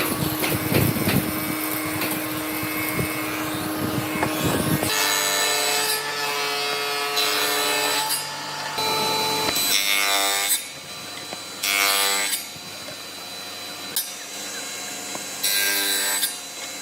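Woodworking tools on wood: a steady, noisy tool sound for about the first five seconds, then a run of separate sawing strokes with a ringing edge.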